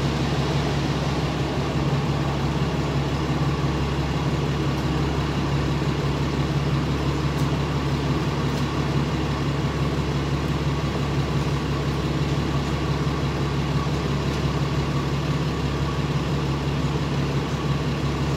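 Truck engine running at a steady idle, an even low hum that does not change.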